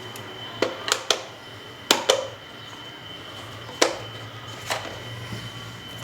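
Irregular sharp clicks and knocks, about seven in all and mostly in the first four seconds, from stand fan parts being handled and set down, over a steady low electrical hum.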